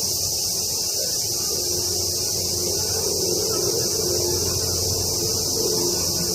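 Steady, unbroken chorus of cicadas, a constant high-pitched buzz, over faint low background murmur.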